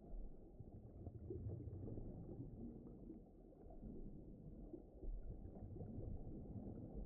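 Faint, low rumbling ocean ambience with the muffled sound of being underwater.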